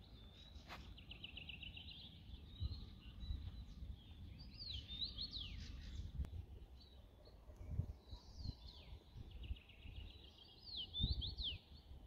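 A songbird singing the same phrase twice: a fast trill followed by a few sharp falling whistles, with low uneven thumps underneath.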